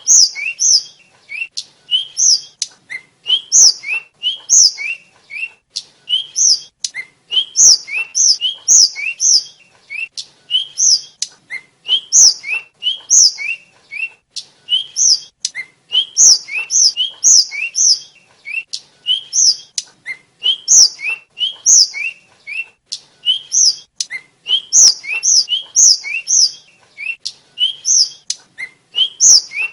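A tledekan, a Cyornis blue flycatcher, singing continuously: quick phrases of short, high, sweet whistled notes that slur up and down, repeated over and over, with faint clicks scattered between them.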